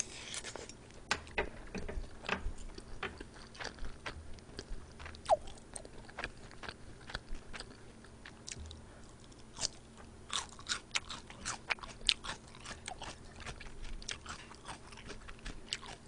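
Close-miked eating sounds: chewing with irregular wet mouth clicks and smacks as someone eats fried rice and jjamppong noodle soup.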